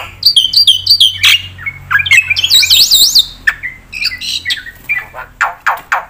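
Black-winged myna singing a loud, varied song packed with mimicked phrases: fast looping whistles and trills, then from about four seconds in a run of quick downward-sweeping notes, about three a second.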